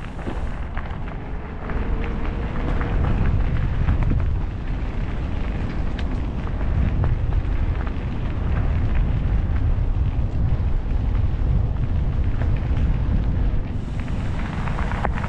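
Wind buffeting the microphone of a moving e-bike, a heavy, uneven low rumble, with scattered light ticks and rattles.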